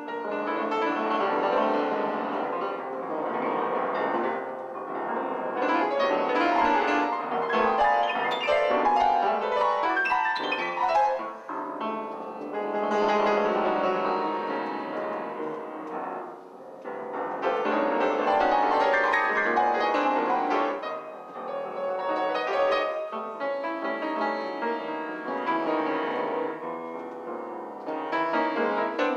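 Solo piano music playing in phrases, with brief pauses about twelve and sixteen seconds in.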